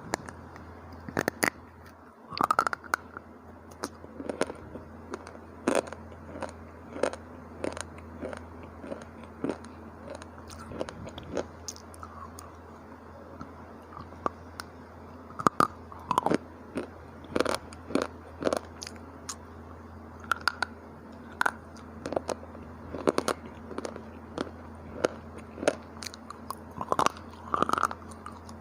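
Dry slate-bar chips crunched between the teeth in close-miked biting and chewing, with sharp, irregular crunches about one or two a second over a faint low hum.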